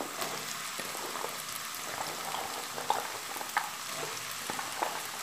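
Potato cubes frying in hot refined oil in a non-stick wok: a steady sizzle with scattered crackles as raw papaya pieces are dropped in by hand.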